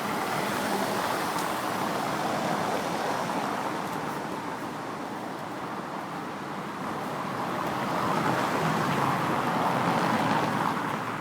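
Steady city traffic noise, a continuous hiss and rumble of passing vehicles that swells about eight seconds in.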